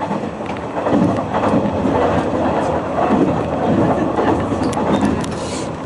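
Hanshin Railway electric train running at speed, heard inside the carriage: a steady rumble of wheels and running gear, with a few sharp clicks near the end.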